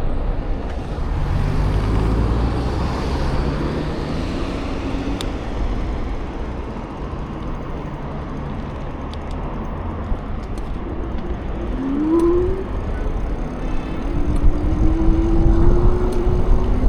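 Road traffic: motor vehicles passing with a steady low rumble. A short rising engine tone comes about twelve seconds in, and a longer, slowly rising tone runs near the end.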